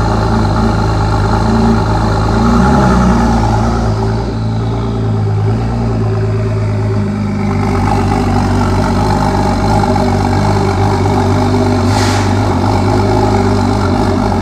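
Performance car's engine running through its exhaust system at a steady, near-idle speed, the note shifting a little now and then, with a brief hiss about twelve seconds in.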